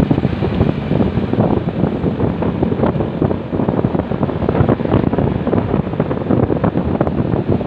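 Wind buffeting the microphone of a moving motorcycle, a steady loud rush that flutters throughout, with the motorcycle's running and road noise mixed underneath.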